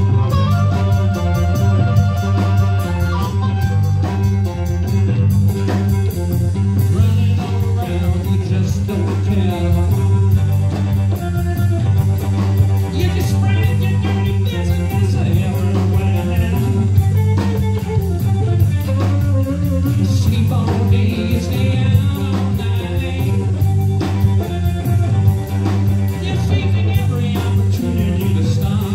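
Live band playing blues-rock: guitar lines over a steady bass and drums.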